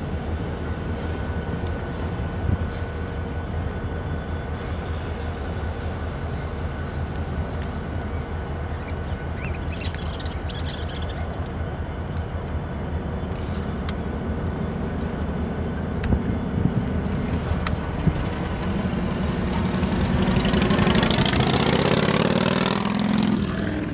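Passenger train rolling past at a distance with a steady low rumble. Near the end a vehicle passes close by, and the rumble swells into a louder, sweeping rush.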